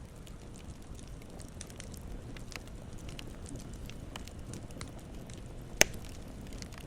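Campfire crackling: scattered small pops and snaps over a low steady hiss, with one loud, sharp pop near the end.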